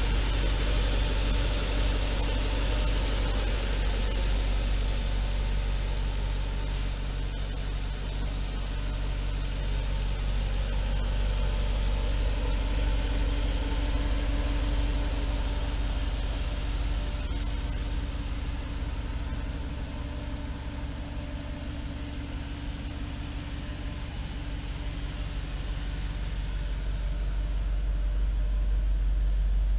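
Audi R8's mid-mounted engine idling steadily, a little quieter for a few seconds in the second half.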